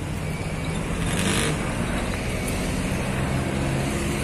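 A motor vehicle's engine running steadily: a low hum under a constant rush of noise, with a short hiss about a second in.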